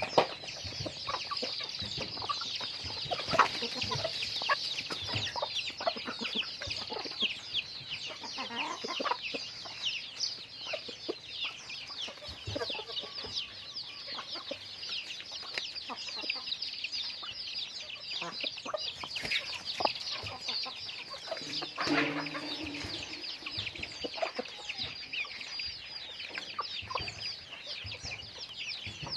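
A flock of chickens calling, with dense high-pitched chatter throughout and clucks, and one louder, lower call about 22 seconds in.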